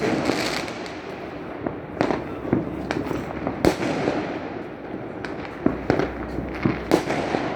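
Many fireworks going off at once: a continuous din of distant bursts and crackle with sharper bangs at irregular moments, roughly one every second.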